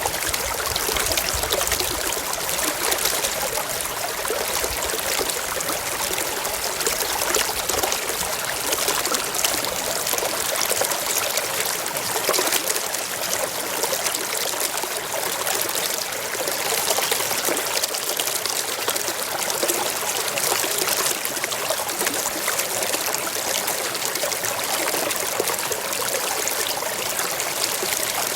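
Forest stream flowing and trickling, a steady, even rush of water.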